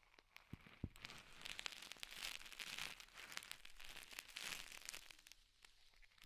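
Soft close-miked ASMR trigger sound: an object being handled with crinkling and crackling full of fine clicks, densest in the middle.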